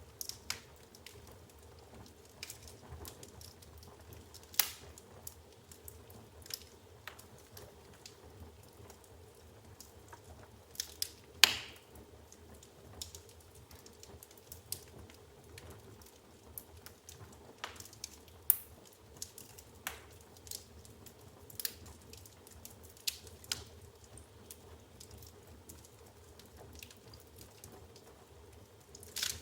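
Wood burning in an open fireplace, crackling with irregular sharp pops and snaps over a faint steady hiss; the loudest snap comes a little before halfway.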